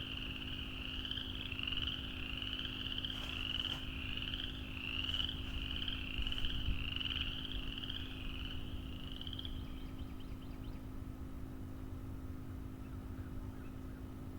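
Chorus of frogs calling together in a dense, high, pulsing trill that drops away about ten seconds in, over a low steady hum.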